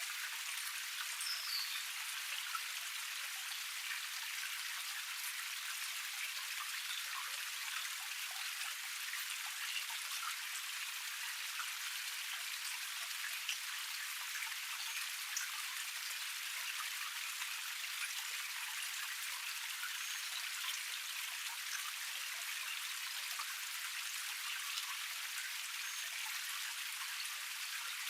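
Water of a small forest cascade splashing and trickling over rocks: a steady rush with a dense patter of drops.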